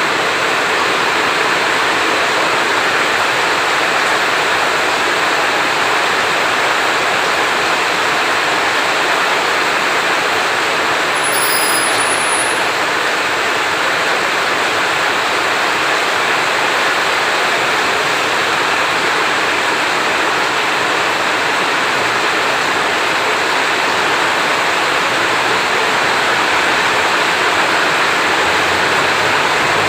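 Heavy rain falling steadily, an even hiss with no thunder. A brief high chirp comes in near the middle.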